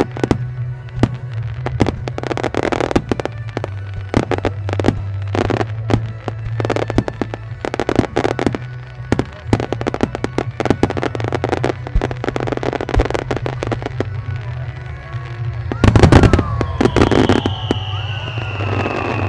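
Starmine fireworks: rapid volleys of mortar launches and shell bursts popping and booming in quick succession. They build to a loudest cluster of bursts about sixteen seconds in, after which a high tone glides slowly downward.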